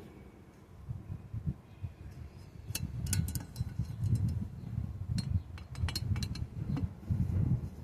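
Handling noise from working on a metal power rake blade: a low rumble with a scatter of light clicks and clinks, starting about three seconds in.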